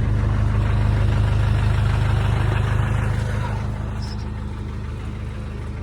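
1997 Land Rover Defender pickup's engine idling steadily at operating temperature. The sound gets somewhat quieter about three seconds in.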